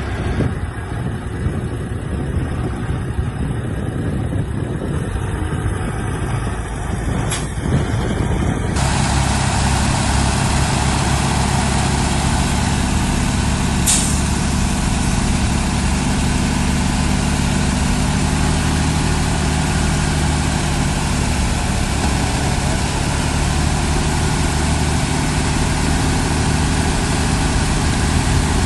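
Heavy machinery diesel engine running steadily. About nine seconds in it changes abruptly to a louder, fuller engine sound, and a short hiss comes a few seconds later.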